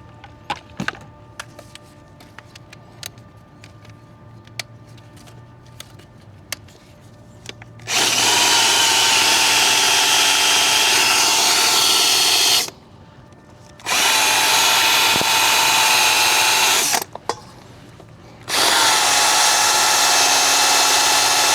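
Power drill spinning a polishing attachment against a metal truck wheel, run in three bursts of about four seconds each with short pauses between. Before the first burst there are several seconds of faint clicks and handling.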